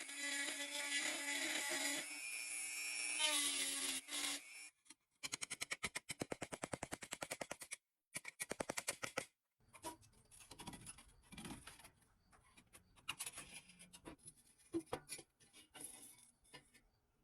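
A small power tool runs steadily with a pitched whine for about four seconds and stops. Then come two spells of rapid, even clicking, about ten a second, followed by irregular scraping and handling noises as parts are worked by hand.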